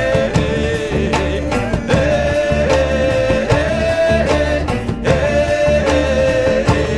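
Alt-country band music with a steady beat and a held, sliding melody line that repeats every couple of seconds.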